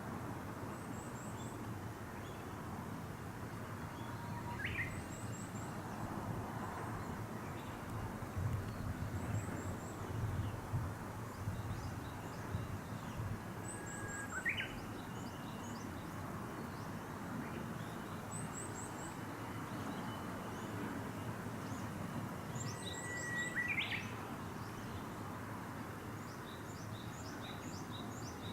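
Wild birds singing: a high, quick triple chirp repeated every few seconds, and three times a louder call, a held note that ends in a fast upward flourish, over a steady outdoor hiss.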